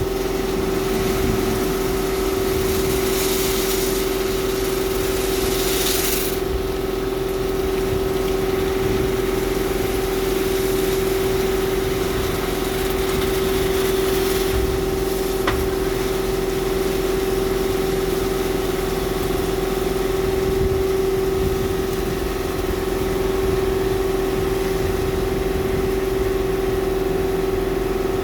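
Washtec SoftCare Pro automatic car wash machinery running with a steady mechanical hum, with a hiss from about three to six seconds in.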